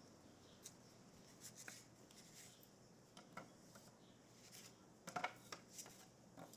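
Faint, scattered clicks and light knocks of small hard parts being handled, with a louder cluster about five seconds in, over a quiet background.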